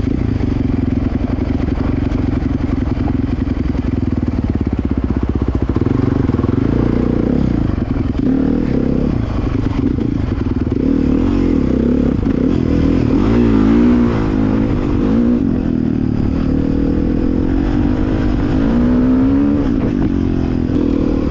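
Dirt bike engine running under way, its pitch rising and falling as the throttle is worked, with a few brief climbs in revs around the middle and near the end.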